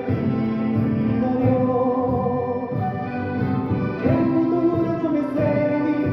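Live music from an orchestra of Andean and Latin American instruments, playing a slow melody in long held notes that slide up into each new note.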